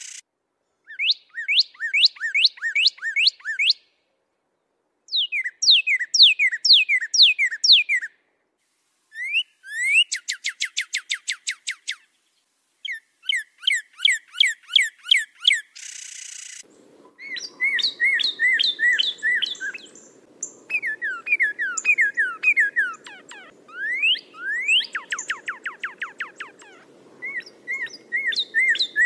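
A songbird singing short phrases of repeated slurred whistled notes and fast trills, with brief pauses between phrases. From about halfway a low steady background hum comes in under the song.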